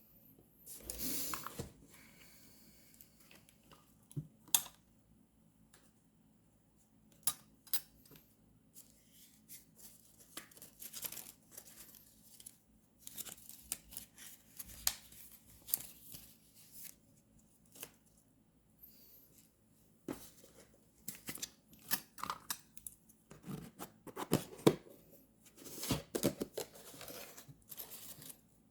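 Paper crafting at a desk for journal decorating: irregular snipping, tearing and rustling of paper and stickers, with scattered light taps and clicks. There are longer stretches of rustling about a second in and again near the end.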